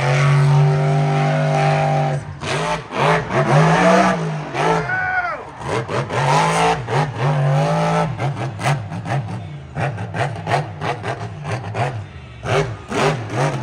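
Monster truck's supercharged V8 engine revving hard, its pitch held, then rising and falling, with a run of sharp cracks through the second half.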